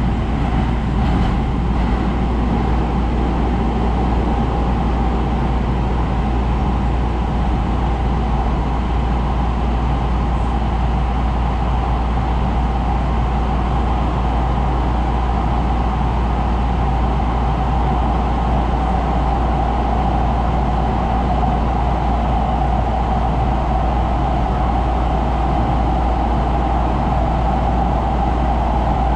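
Steady running noise inside a metro rail car: a low rumble with a steady mid-pitched whine over it.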